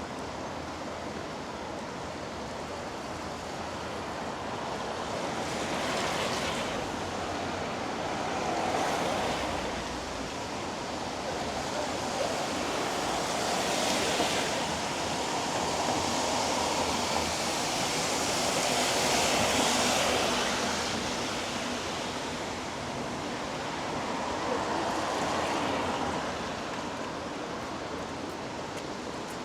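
Steady hiss of rain on a city street, with the sound swelling and fading several times as vehicles pass on the wet road.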